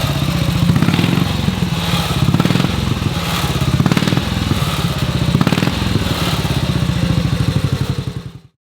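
1941 Norton Big 4's 633 cc single-cylinder side-valve engine ticking over at a steady, slow beat, until the sound cuts off near the end.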